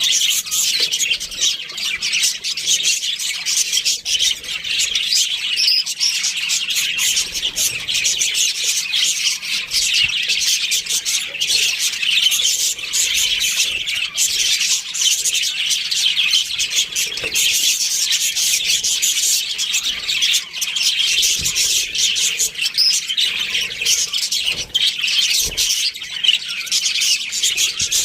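A flock of budgerigars chirping and chattering continuously, many birds calling at once in a dense twittering chorus.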